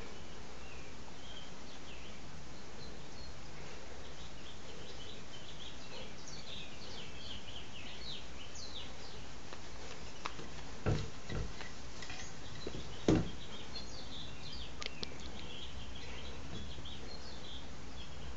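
Faint, scattered chirping of small birds over a steady low background hum, with a couple of short dull knocks about eleven and thirteen seconds in, the second the loudest.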